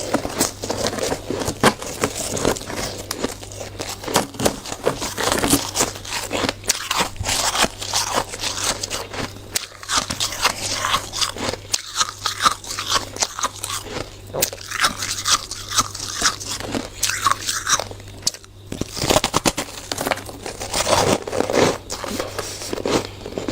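Hard, frosty shaved ice being bitten and chewed close to the microphone: dense, irregular crunching, with a brief pause about three quarters of the way through.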